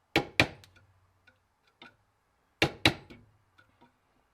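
Hammer tapping a tool set in the groove of a solid chainsaw bar, spreading the pinched rails back open: two sharp double taps about two and a half seconds apart, each followed by a few faint lighter ticks.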